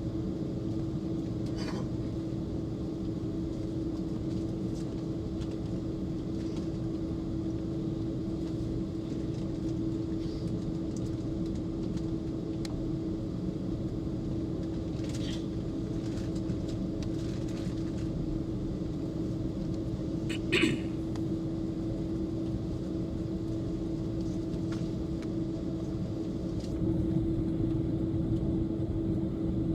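Inside the cabin of an Airbus A330 airliner: a steady rumble of the jet engines and airflow with a constant low hum, and a few light clicks, one sharper about two-thirds of the way through. The rumble steps up in loudness near the end.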